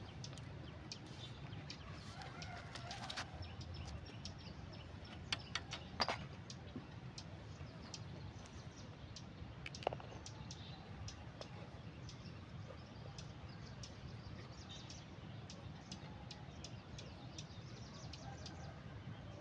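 Faint birds calling and chirping, short scattered calls over a steady low background, with a few sharp clicks now and then.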